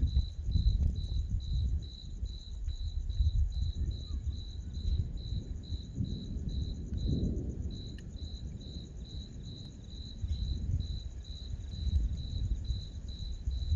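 A cricket chirping steadily, about three chirps a second, over a low rumble that swells and fades.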